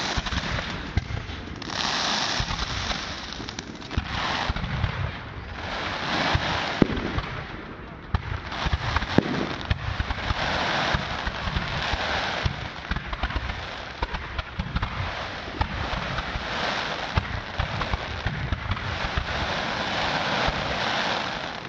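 Firework display: a continuous run of sharp bangs with waves of crackling that swell and fade every few seconds.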